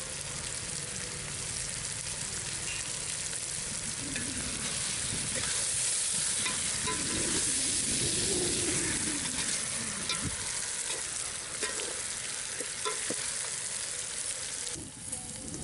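Spiced chicken pieces sizzling in a hot metal pot while a metal spoon stirs them, with scattered clinks and scrapes of the spoon against the pot. The sizzle is loudest about halfway through and cuts off abruptly near the end.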